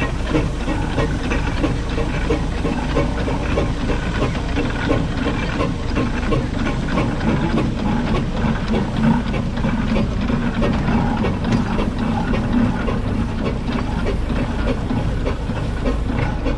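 1914 Wallis & Steevens general purpose steam traction engine running, with a steady hiss of steam and quick, close-set beats.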